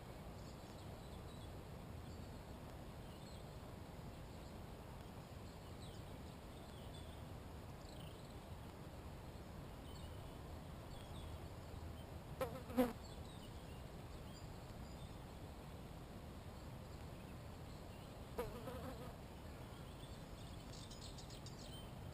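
A flying insect, a fly or bee, buzzing close past the microphone twice: once about halfway through and again near the end. Faint distant bird chirps and a low steady rumble sit underneath.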